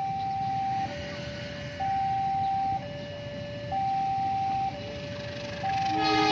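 Railway level-crossing warning alarm: an electronic two-tone signal alternating between a higher and a lower tone, each held about a second. Near the end a train's horn starts sounding over it.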